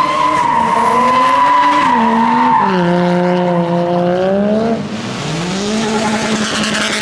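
Toyota Chaser's engine revving loudly, held at high revs with its pitch dipping and climbing, and tyres squealing over the first few seconds.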